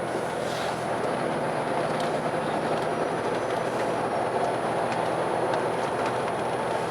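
Car driving at a steady speed, heard from inside the cabin: a steady rumble of tyres and engine, with a few faint knocks from the road surface.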